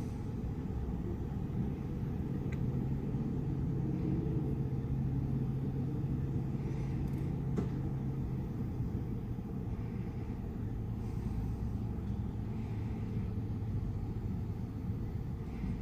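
Steady low mechanical rumble with a constant hum, like a motor or engine running, with two faint clicks.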